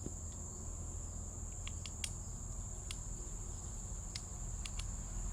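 Steady high-pitched drone of insects such as crickets, with a low steady rumble underneath and a few faint clicks.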